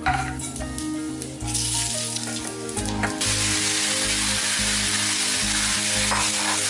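Food frying in a hot wok: a loud, even sizzle that jumps up about three seconds in and then holds steady, after a few light knocks and clatters. Background music with steady bass notes plays underneath.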